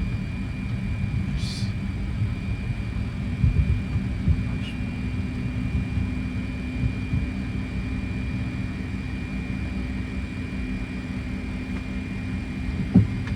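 Cockpit noise of a Fokker 100 taxiing at low power: a steady rumble from its rear-mounted turbofans with a thin steady high whine over it. A brief hiss comes about a second and a half in, and a single sharp knock sounds near the end.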